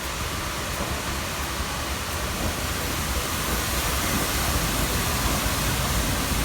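Steady rushing noise with an uneven low rumble: railway station platform ambience with trains standing nearby.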